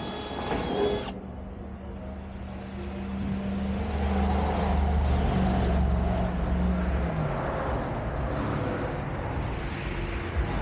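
A motor vehicle's engine running, growing louder over a few seconds and then dropping in pitch and fading, as of a car or truck driving past.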